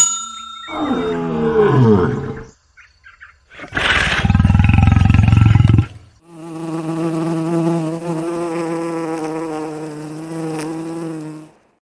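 A run of separate animal calls: a pitched call sliding down in pitch, a harsh, noisy roar about four seconds in, then a long steady buzzing tone lasting about five seconds.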